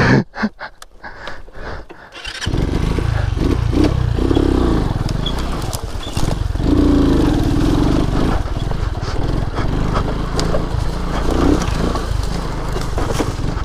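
Lifan KP Mini 150 single-cylinder motorcycle engine comes on abruptly about two and a half seconds in, after a few clicks, and then runs as the bike is ridden. The engine is revved up twice along the way.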